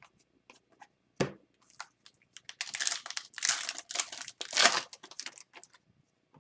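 Upper Deck hockey card pack wrapper being torn open and crinkled: a soft thump about a second in, then a few seconds of crackling rustle, loudest near the end.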